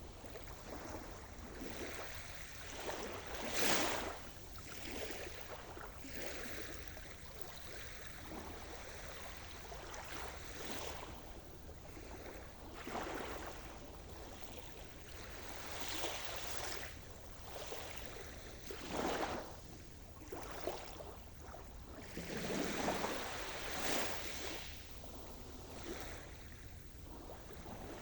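Sea surf: waves washing in and breaking irregularly, a steady wash of water with surges every few seconds, the strongest about four seconds in and again near the two-thirds mark.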